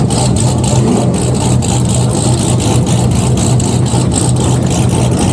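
Car engine running steadily, with a low hum and an even pulsing about four to five times a second.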